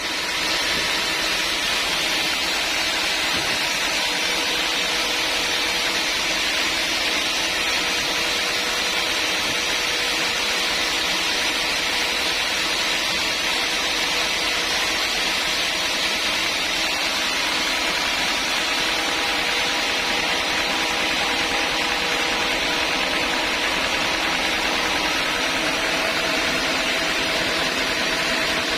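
Sawmill saw machinery running steadily: an even rushing noise with faint humming tones that shift slightly in pitch in the second half.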